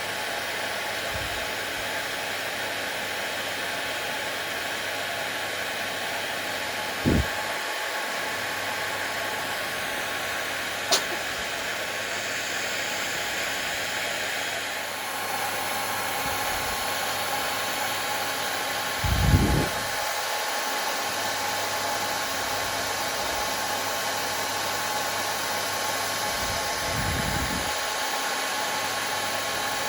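Hair dryer running steadily, an even rushing noise with a faint steady hum. A few short low thumps break through, the loudest about two-thirds of the way in, with a brief click about a third of the way in.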